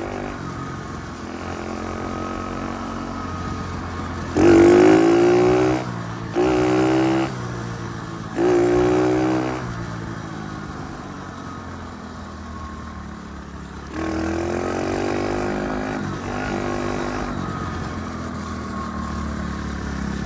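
Dirt bike engine running under way in second gear, the throttle opened three times in quick succession, each a short loud rise in pitch that cuts back off, then opened up again a few seconds later.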